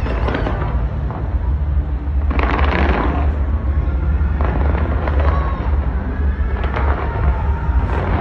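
Fireworks fired from the Taipei 101 tower: a continuous low rumble of booms with bursts of crackling. The densest crackle comes about two and a half seconds in.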